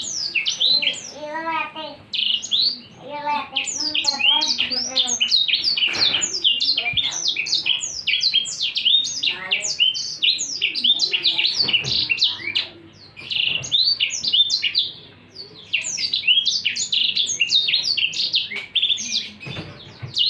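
Songbird singing nonstop ('gacor'): a fast, dense stream of short high chirps and trills with only brief pauses.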